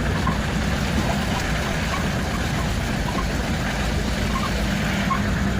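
Truck engine running steadily, a constant low hum under an even wash of noise.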